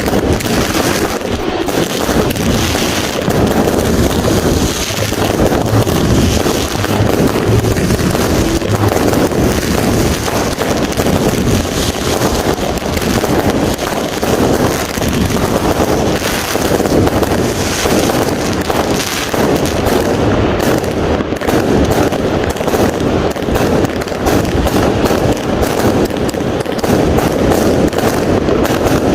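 Fireworks and firecrackers going off in a dense, continuous barrage, the bangs and crackles overlapping without a break.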